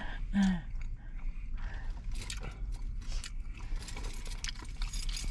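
A person chewing food with irregular wet mouth clicks and smacks, with wooden chopsticks tapping and scraping in a styrofoam takeout container. A brief hummed 'mm' sounds about half a second in.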